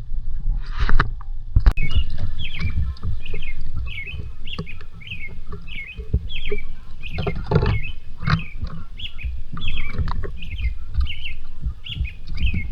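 A bird calling over and over, short high chirps about twice a second, over a steady low rumble. A couple of louder noisy bursts come about a second in and again a little past the middle.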